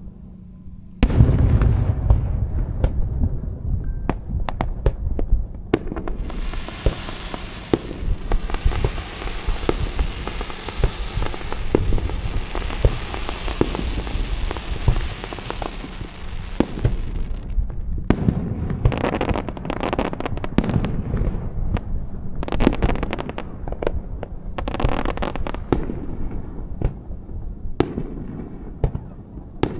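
Fireworks display: a barrage of shell bursts breaks in suddenly about a second in, with many sharp bangs. A long steady hiss runs from about six to seventeen seconds, followed by further volleys of bangs.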